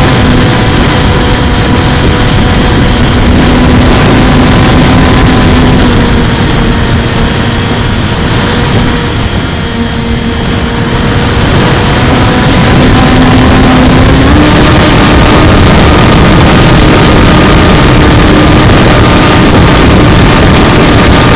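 Bixler 2 RC plane's brushless electric motor and propeller whining steadily, buried in heavy wind rush. The whine dips and softens about halfway through as the throttle eases, then steps up to a higher, steady pitch a few seconds later.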